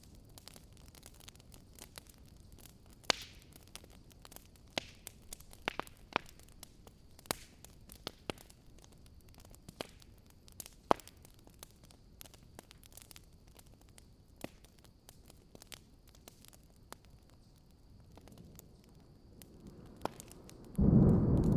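Wood fire crackling, with irregular sharp pops over a faint steady hiss. Near the end a sudden, much louder low rumble of thunder breaks in and carries on.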